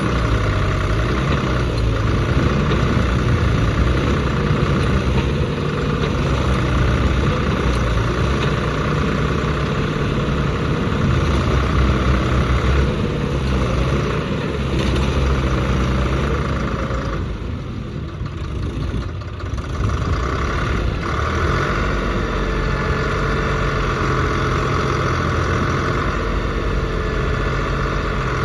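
Deutz-Fahr tractor's diesel engine running steadily under load as the tractor works in mud, easing off briefly about two-thirds of the way through before picking up again.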